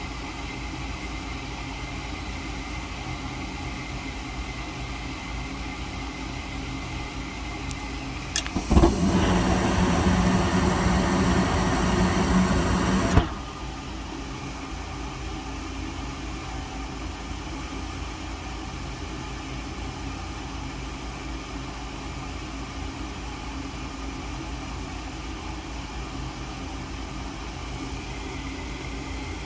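Gas furnace's inducer fan running steadily. About eight seconds in there is a click, and the burners light with a loud rushing of gas flame that cuts off suddenly after about four seconds: the flame drops out, a failed ignition attempt.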